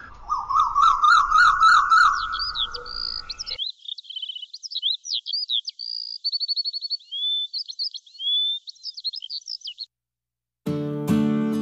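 Birdsong. A whistled call of quick up-and-down notes repeats for about three and a half seconds, then gives way to higher, varied chirps and trills. Near the end the birds stop, and after a short gap acoustic guitar music begins.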